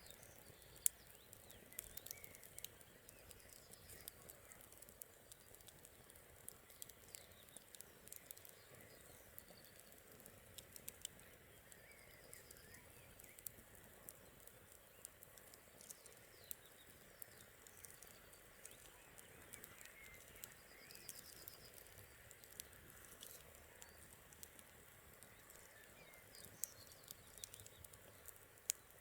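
Quiet campfire crackling, with scattered sharp pops from the burning wood, the loudest about a second in. Faint birds chirp now and then in the background.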